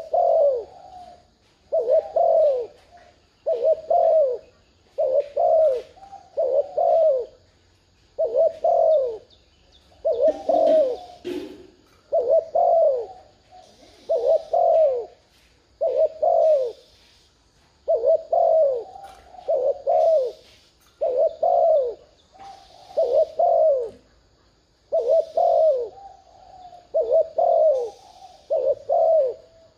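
Spotted dove giving rapid, excited cooing calls: short falling coos, often in close pairs, about one a second.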